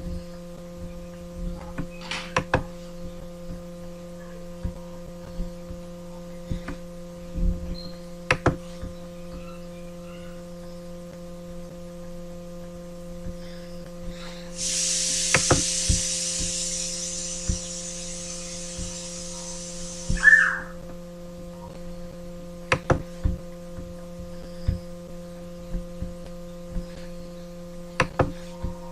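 Steady electrical mains hum with scattered sharp clicks. About halfway through, a hiss rises for roughly six seconds and ends with a short chirp.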